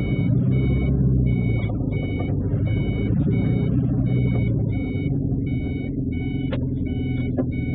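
A truck engine runs with a steady low rumble while an electronic warning beeper sounds in pairs of short beeps, a pair about every second and a half.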